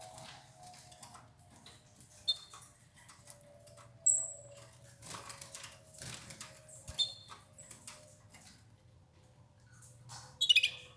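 Canaries pecking and tearing at escarole leaves, with scattered scratchy rustles and light fluttering, and a few short high chirps, the loudest about four seconds in and a quick run of notes near the end. A faint steady low hum runs underneath.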